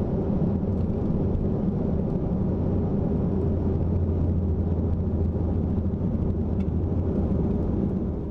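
Airbus A340 on its landing rollout after touchdown, heard from the cockpit: a steady low rumble of engines and wheels on the runway as the aircraft decelerates.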